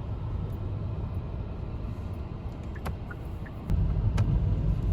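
Low rumble of a car heard from inside the cabin, growing louder about two-thirds of the way through, with a few faint clicks.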